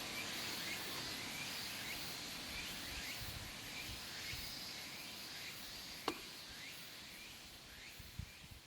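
Outdoor ambience: a steady high hiss with a short chirp repeating about twice a second, and one sharp click about six seconds in, fading slowly.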